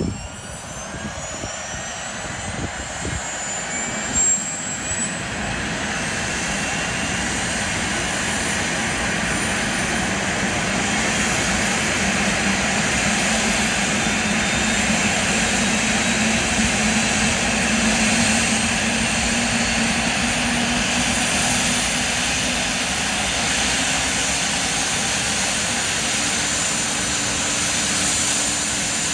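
Airbus EC145T2 helicopter's turbine engines spooling up: a high whine rises in pitch over the first few seconds and grows louder, then settles into a steady turbine whine and rotor noise.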